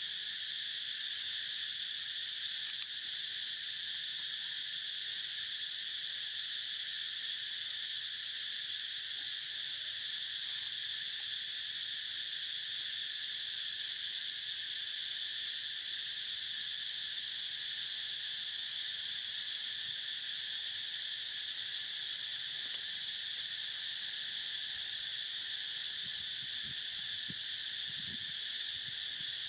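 A steady, unbroken high-pitched insect drone, a chorus of cicadas or crickets, holding one even pitch throughout.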